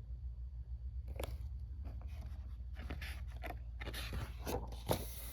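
Paper rustling and scraping as the pages of a picture book are handled and turned, a series of irregular crackles over a steady low hum.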